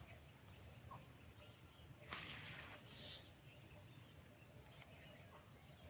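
Quiet outdoor ambience with a brief rustle about two seconds in and a faint high chirp or two.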